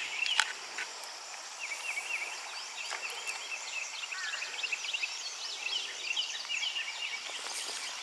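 Birds chirping in many short, high, sliding notes over a faint steady hiss of flowing river water, with a single sharp click about half a second in.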